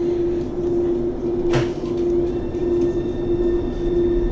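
Thessaloniki Metro train standing at a station with a steady hum. A single sharp knock comes about a second and a half in as the doors shut, then a faint high whine comes in as the train begins to pull away.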